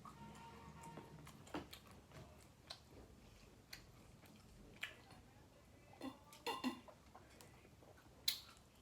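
Scattered small clicks and taps from eating and handling food at the table, with a brief cluster of sounds about six seconds in and one sharper click near the end.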